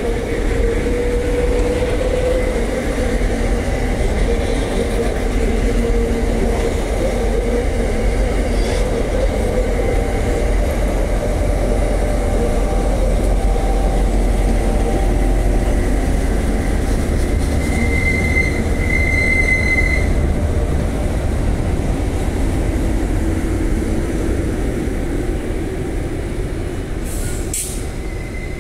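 Two trains passing each other close by: coal wagons and stainless-steel passenger carriages rolling past with a steady heavy rumble. A high wheel squeal runs through it and gets louder for a couple of seconds a little past the middle.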